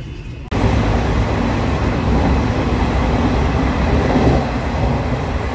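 Running noise of an Indian Railways passenger train heard from inside the coach with its barred windows open: a steady, loud rumble of the wheels on the rails that cuts in suddenly about half a second in.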